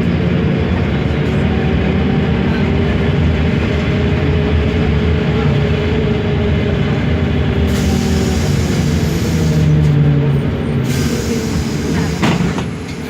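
Mercedes-Benz OMC-1421 city bus's diesel engine running while the bus is under way, its pitch shifting slightly. A high hiss rises over it for a few seconds past the middle, and a sharp knock sounds near the end.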